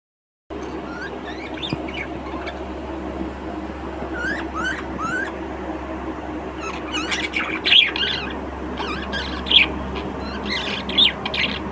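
Budgerigars chirping and squawking: a few short rising chirps, then a run of louder, harsher calls in the second half, over a steady low hum.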